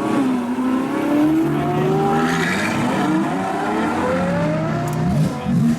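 Sports-car engines accelerating hard away. The engine note climbs in pitch, drops back and climbs again through the gears, with more than one engine overlapping.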